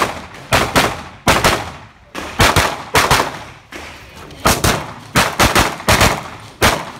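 Handgun firing rapidly in an IPSC stage, about fifteen shots mostly in quick pairs a fraction of a second apart, with short pauses between the pairs and one longer gap around the middle.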